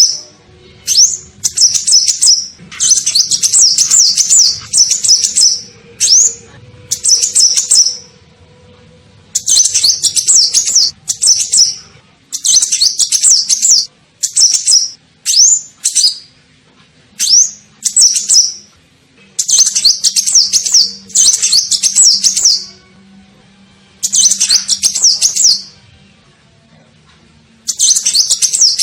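Kolibri ninja sunbird lure call: bursts of rapid, high chirping repeated about a dozen times with short pauses between.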